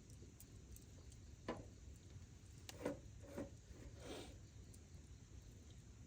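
Faint low background with four short, soft knocks spread through the middle.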